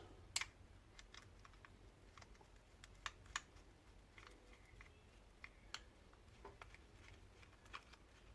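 Near silence with faint, scattered clicks and ticks as a hand screwdriver turns a screw into the grinder being reassembled.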